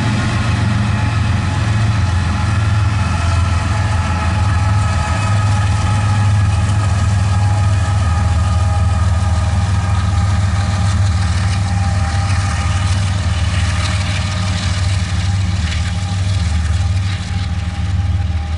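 A freight train of tank cars rolling past, with a rear-end diesel locomotive's engine giving a steady low drone as it passes and moves off. A few faint steady high tones sound over the drone.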